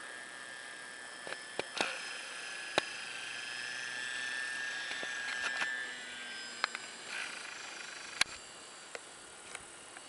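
Whine of a flying RC trainer model plane's motor, faint and steady with a slight swell in the middle as it passes closer. Several sharp clicks sound over it.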